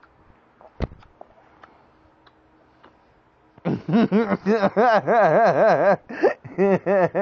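A single sharp click about a second in. Then, from past the halfway point, a loud wavering vocal sound whose pitch rises and falls several times a second, broken by a few short gaps.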